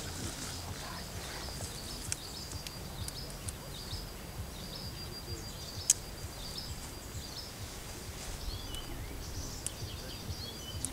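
Birds chirping over a low outdoor rumble, with a thin steady high tone and a sharp click about six seconds in.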